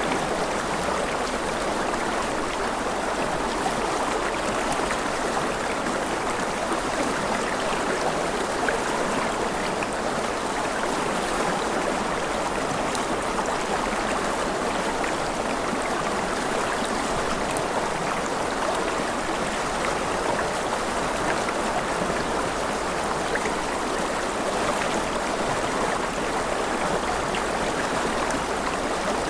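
Flowing stream water rushing steadily and evenly, with faint scattered splashes and drips on top.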